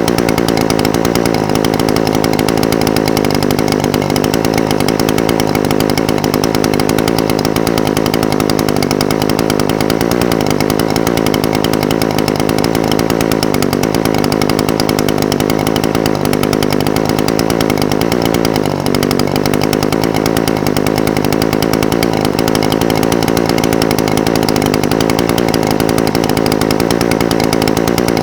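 Echo SRM-420TES brush cutter's two-stroke engine idling steadily, its pitch wavering slightly, with a brief dip about two-thirds of the way through.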